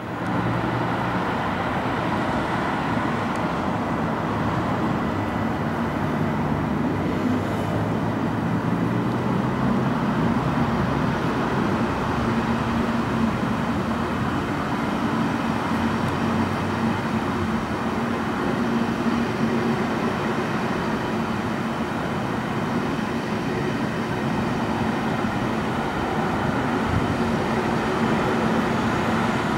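Deutsche Bahn ICE high-speed train running past on the tracks below: a steady rumble of the train with a few low humming tones.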